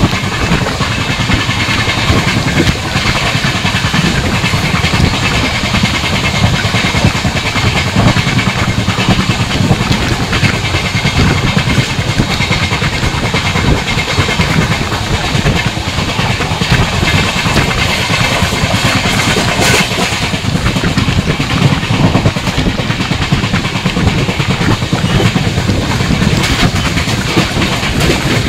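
Coalfield Superfast Express passenger train running along the track: a loud, steady rush of wheel-and-rail noise with many small clicks.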